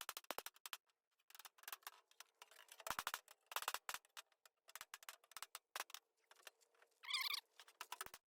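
Hammer-and-dolly work on tractor body sheet metal: quick clusters of sharp hammer taps with short pauses between them. A brief wavering squeak comes about seven seconds in.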